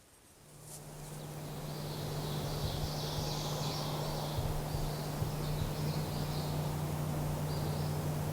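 A steady low hum swells in over the first two seconds and then holds level, with faint high-pitched bird song chirping over it.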